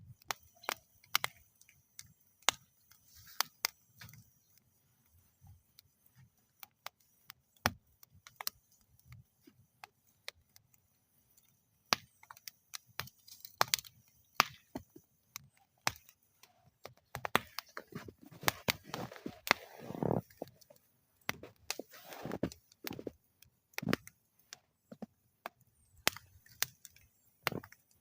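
Wood fire burning in a metal fire bowl, crackling with irregular sharp pops and snaps. The crackling gets busier and louder in the second half.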